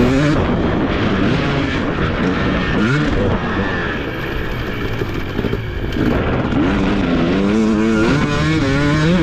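TC250 motocross bike's engine revving up and down as it is ridden hard, the pitch sweeping up about three seconds in, dropping away in the middle as the throttle eases, and climbing again near the end.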